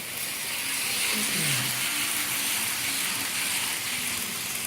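Several N-scale model trains running on the layout: a steady high-pitched hiss of small wheels on the track and motors.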